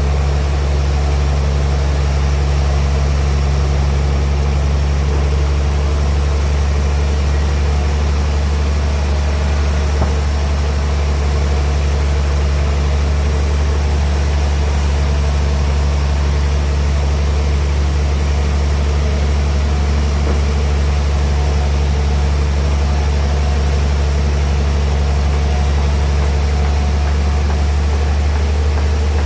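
Band sawmill machinery running with a steady, unchanging low hum.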